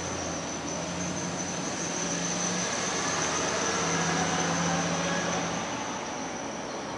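Bombardier M-7 electric multiple-unit train approaching along the rails, with a low hum, rolling noise and a steady high-pitched whine. The sound grows louder to about four seconds in, then eases a little.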